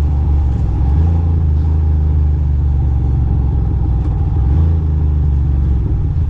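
2006 Ducati Monster 620's air-cooled V-twin engine running steadily while riding, with its pitch shifting slightly a couple of times as the throttle changes.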